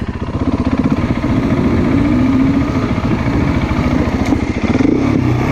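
Motorcycle engine running under way, its revs rising and falling as it is ridden.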